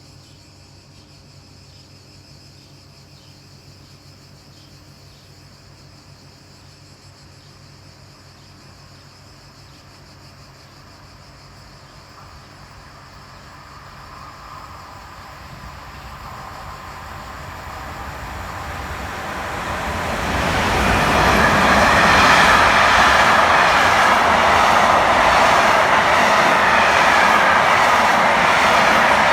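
An electric train approaching and passing, its rolling noise faint at first and growing steadily louder from about halfway through, then staying loud and even over the last third.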